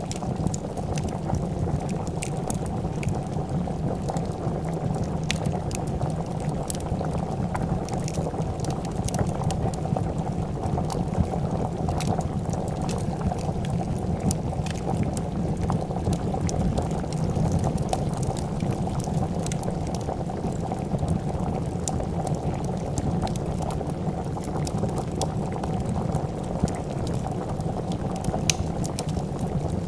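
A pot of soup bubbling at a steady boil, with scattered small sharp crackles of a wood fire.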